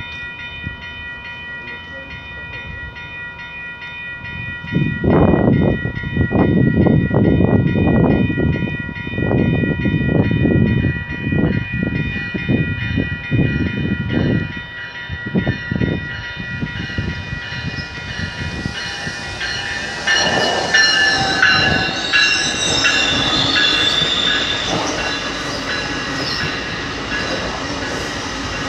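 Commuter train on the rails. Its wheels clatter in a rapid run over the rail joints from about five seconds in, over a steady whine. From about twenty seconds in, high-pitched wheel squeal takes over.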